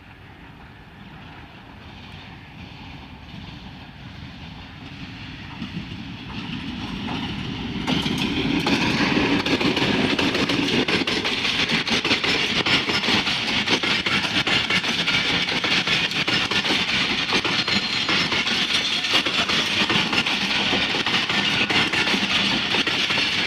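Diesel locomotive hauling a passenger train, approaching and growing steadily louder, then passing close about eight seconds in. After that come the steady rumble and clickety-clack of the passenger coaches rolling past over the rail joints.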